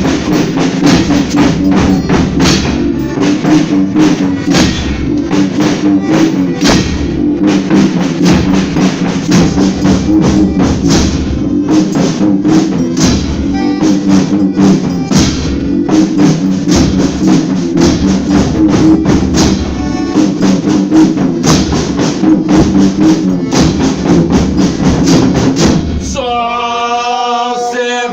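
Folia band playing an instrumental passage between sung verses: fast, steady tambourine and drum strokes over a sustained chord. A man's voice starts singing near the end.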